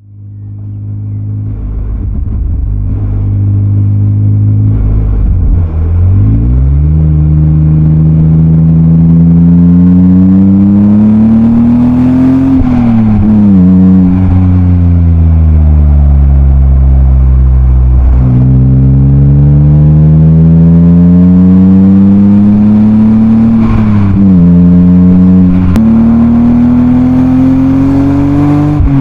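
BMW M52B28 2.8-litre straight-six heard through a Schmiedmann rear silencer, accelerating on the road. It starts at a steady pitch, then revs climb, drop back at an upshift about halfway through, ease off, climb again, and drop at another upshift near the end.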